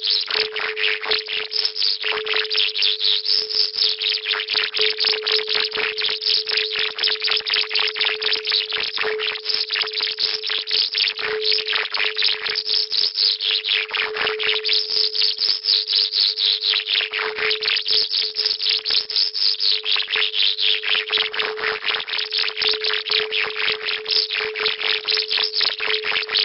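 Electronic sound-healing track: a steady low hum-like tone held throughout, under a hiss that pulses about four times a second and swells and fades in slow waves every few seconds.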